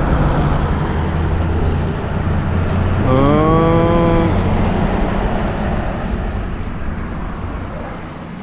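A motor vehicle's engine running close by in street traffic, louder in the middle and fading away over the last few seconds. About three seconds in there is a brief pitched call lasting about a second.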